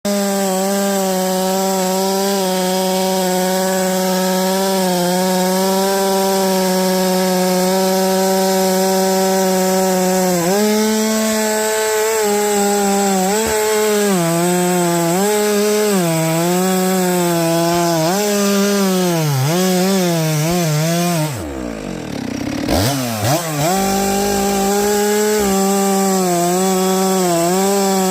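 Two-stroke chainsaw cutting through a whole oak log. At first it runs at a high, even pitch; about ten seconds in, the engine note starts dipping and recovering again and again as the chain bites into the wood. About two-thirds of the way through the pitch drops sharply for a moment, then the saw revs back up to a steady high note.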